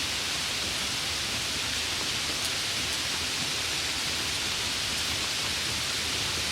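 Steady rain as white noise: an even, unchanging hiss, strongest in the upper range, with no separate drops or thunder standing out.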